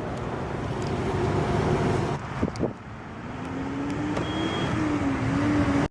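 1997 Mercedes-Benz S500's 5.0-litre V8 idling just after start-up, a steady low hum. A couple of clicks come about two and a half seconds in, then a faint tone slowly rises in pitch over the last three seconds.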